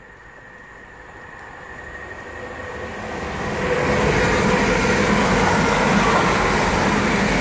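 A Class 365 electric multiple unit train approaching. Its noise grows steadily louder over about four seconds, then holds loud as it runs past close by.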